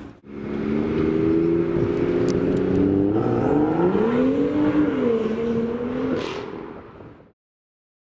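A car engine holding a steady note, revving up and back down about four seconds in, then fading out about seven seconds in.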